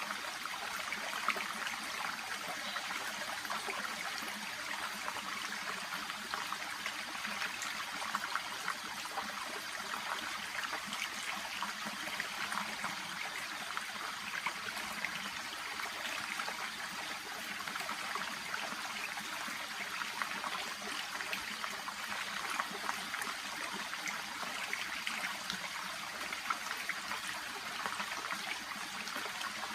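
Shallow brook (せせらぎ) babbling and trickling steadily, with many small splashes over the constant rush of water.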